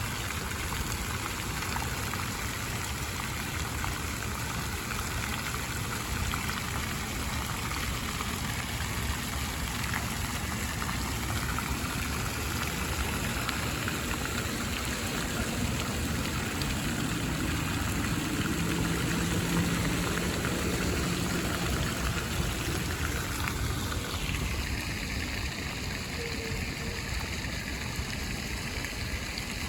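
Steady rush of splashing water from a water fountain's jets, mixed with rain. A low hum swells and fades in the middle.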